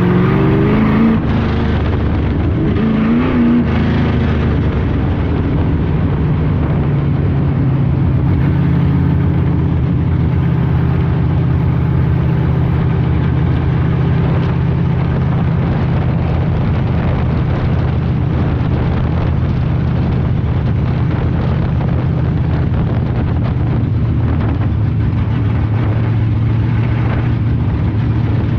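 Street stock race car's engine running hard: revs climb at the start, dip briefly about three seconds in, then hold a steady, loud drone.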